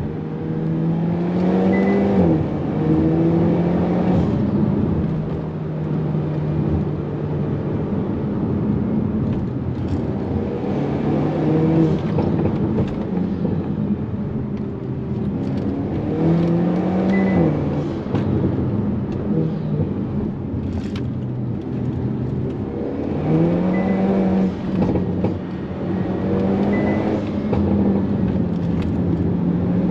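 Hyundai Kona N's turbocharged 2.0-litre four-cylinder engine pulling hard, heard from inside the cabin: its pitch climbs and then falls sharply at upshifts three times, with steadier running between. Short sharp knocks come now and then.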